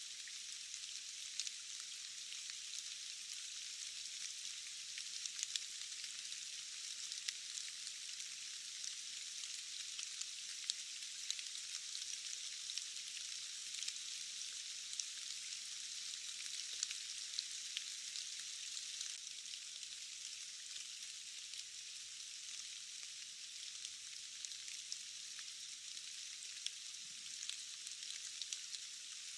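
Steady rain falling: an even high hiss with many small drop ticks scattered through it and almost no low rumble.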